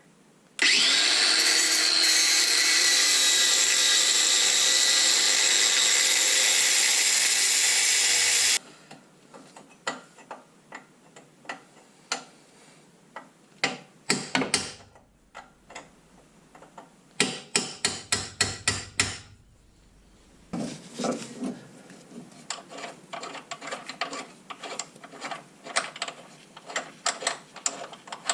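Angle grinder cutting through a seized suspension ball joint for about eight seconds, its whine dropping slightly in pitch, then stopping suddenly. After it come scattered metal clicks and taps, a short run of sharp knocks about two-thirds of the way in, and quick clicking near the end.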